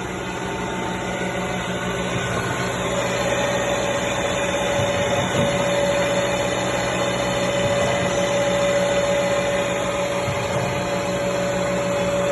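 Busch NF102 keyway milling machine running: a steady motor hum, with a steady whine joining about three seconds in.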